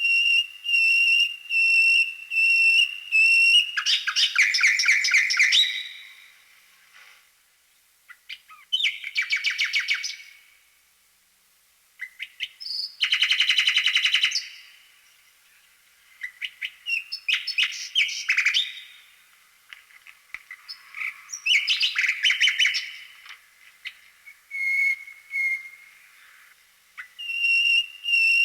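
A songbird singing: a run of clear, evenly repeated whistled notes, then several bursts of fast trills with short pauses between, and the repeated whistled notes again near the end.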